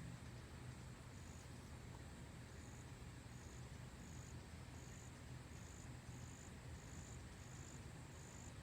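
Faint, high-pitched insect chirping, short chirps repeating evenly about twice a second, over a low steady hum.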